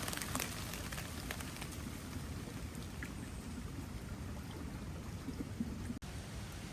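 Light rain falling, with scattered drops tapping, more of them in the first couple of seconds, over a steady hiss.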